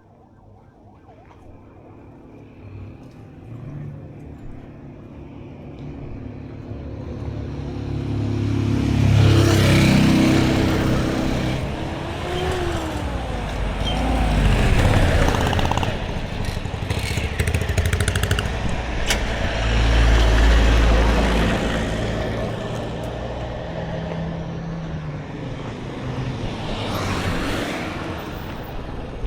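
Road traffic passing close by: motor vehicles approaching and going past one after another, their engine and tyre noise swelling and fading about four times, with an engine note gliding up and back down as one goes by.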